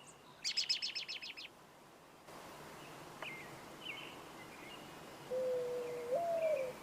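Small bird's chattering call: a rapid run of about nine high, scratchy notes in the first second and a half, followed by fainter scattered chirps. A steady, slightly wavering musical tone comes in about five seconds in.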